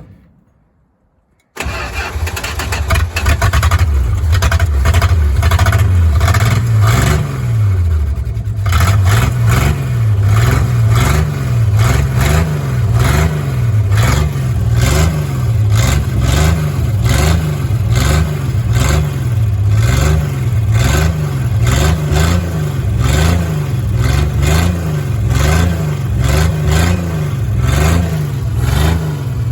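A 1987 Dodge Dakota's engine comes in abruptly after a moment of near silence and runs loud. From about seven seconds in, its speed rises and falls about once a second, over and over.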